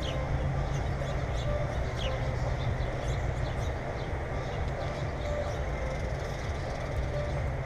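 A steady low rumble with faint, short high-pitched bird chirps now and then.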